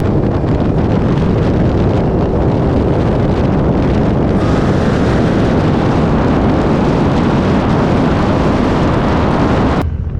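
Heavy wind noise buffeting the microphone at speed, over car engine and road noise. It cuts off abruptly near the end.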